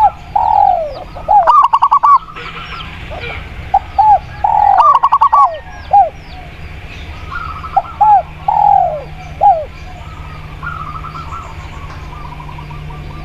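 Spotted dove and zebra dove cooing, in three phrases about four seconds apart, each ending in a longer falling note. Small birds chirp faintly throughout.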